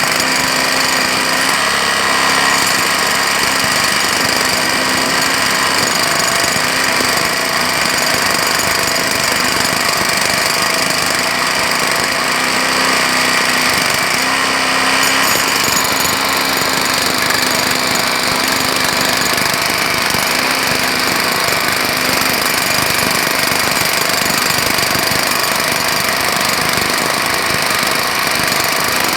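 Jackhammer hammering continuously, a steady, rapid rattle of impacts.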